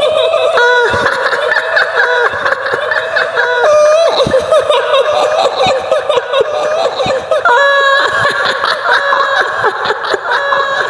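A woman's shrill, high-pitched laugh, the eerie giggle attributed to the kuntilanak ghost, in long wavering notes that step up and down in pitch.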